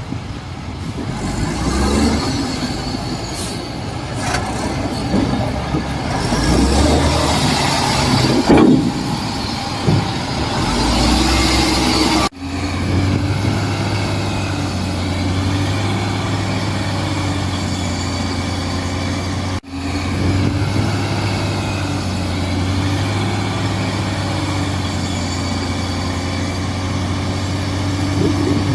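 Heavy diesel construction machinery working: the engine revs up and down for the first twelve seconds or so, then after two abrupt breaks settles into a steady low drone.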